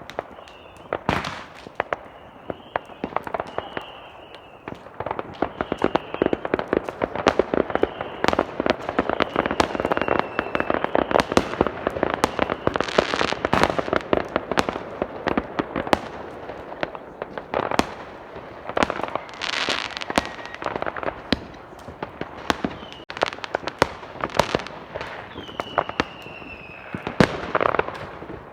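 Firecrackers and fireworks going off in rapid, overlapping bangs and crackles, thickest in the middle stretch, with several whistling fireworks whose whistle slides slightly down in pitch.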